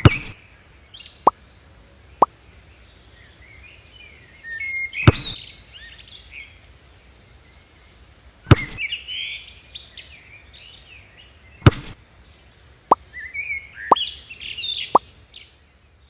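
Birds chirping in short clusters, broken by sharp plops and knocks: four loud ones spaced a few seconds apart and several lighter, pinging ones.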